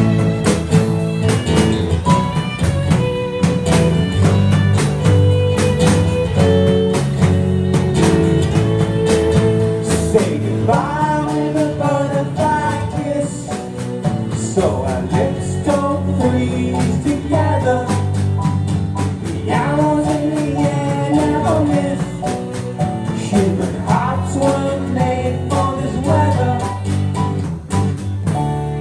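Live band music: guitars and percussion playing the song's closing instrumental stretch, with a wordless sung melody coming in about ten seconds in.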